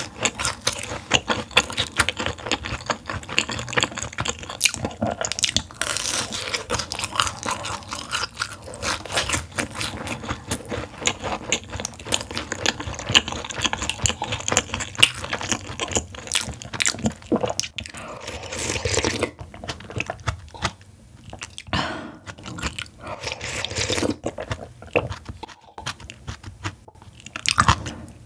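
Close-miked crunching and chewing of food, dense and continuous for the first half, then sparser; near the end come loud slurps of spicy soup broth sipped from a wooden ladle.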